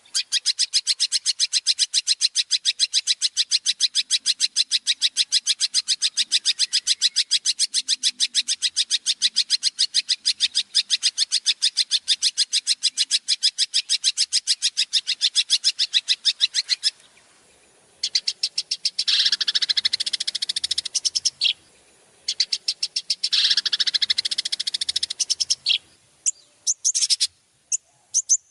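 Recorded songbird song: a long, fast, evenly repeated high trill that runs for about seventeen seconds and stops. After a short pause come two harsher, rasping bursts of song and a few short chirps near the end.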